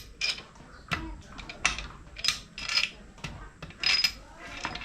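Metal tools and engine parts clinking and clattering, an irregular series of sharp metallic knocks, some with a short ring, as the engine is dismantled by hand.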